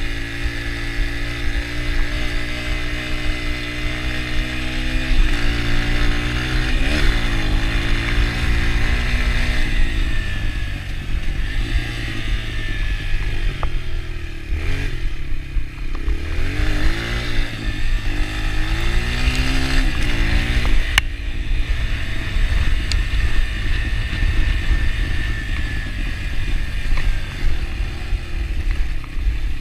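Yamaha TT-R125 dirt bike's single-cylinder four-stroke engine running under way, its pitch dropping and climbing again several times as the throttle is rolled off and on. A sharp click comes about two-thirds of the way through.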